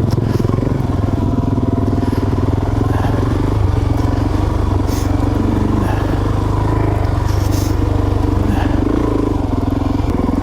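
Suzuki DRZ400S single-cylinder four-stroke engine running steadily under way on a dirt trail, its pitch shifting slightly with the throttle, with a few brief clatters.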